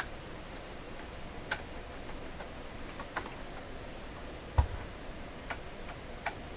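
Scattered light clicks and taps from handling a vintage Sharp transistor radio on a workbench, with one heavier thump about four and a half seconds in.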